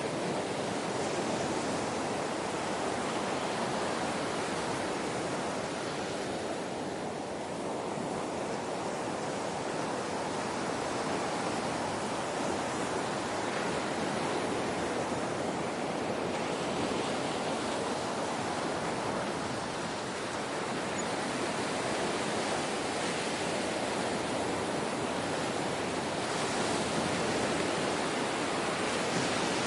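Ocean waves washing on a shore: a steady hiss of surf that swells and eases gently, dipping briefly twice.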